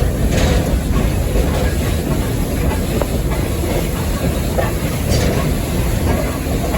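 Steam locomotive running, heard from inside its cab: a steady heavy rumble with rattling. Two brief louder noises come through, one just after the start and one about five seconds in.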